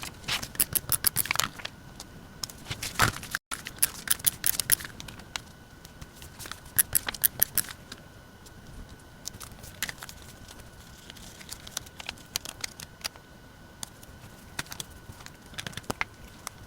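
Paper and stickers being handled during diary decorating: several short clusters of crisp clicks and rustles, over a faint steady hum.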